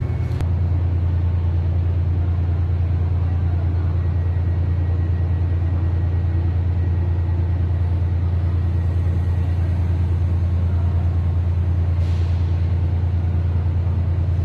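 A stationary TransPennine Express train at a platform, running with a loud, steady low drone. A brief faint hiss comes about twelve seconds in.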